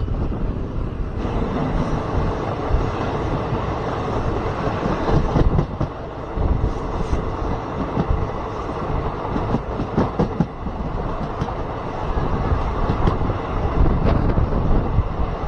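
Passenger train running on the rails: a steady rumble and hiss of wheels on track, with a run of short sharp clicks through the middle.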